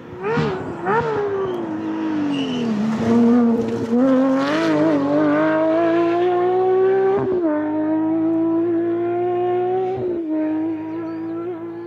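Rally car engine blipping the throttle twice, then pulling hard with its pitch climbing steadily and dropping sharply at two gear changes.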